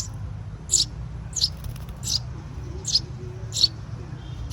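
Young birds chirping, one short high chirp about every three-quarters of a second, over a steady low hum.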